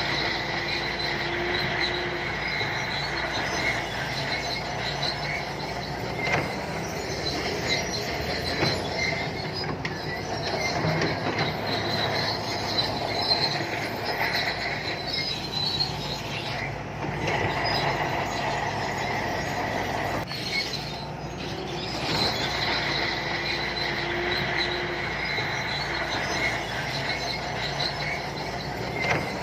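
Shantui crawler bulldozer working: its diesel engine runs steadily while the steel tracks squeal and clank as they roll.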